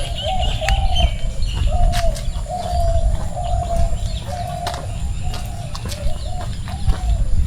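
A bird calling a steady run of short, even, cooing notes, about one and a half a second, over a low rumble and scattered sharp clicks.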